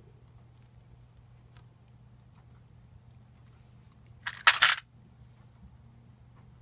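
A brief clatter of hard parts being handled, two or three quick close knocks about four and a half seconds in, with faint clicks before it, as the lightsaber replica is worked on during disassembly.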